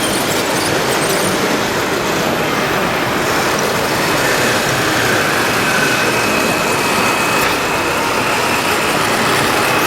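Radio-controlled model bulldozer (Komatsu D65PX) working: a steady, dense mechanical running noise, with a faint high whine in the middle.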